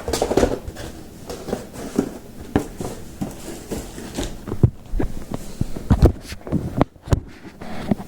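Packaging being handled: rustling with a string of irregular knocks and thumps as parts are taken out of a box.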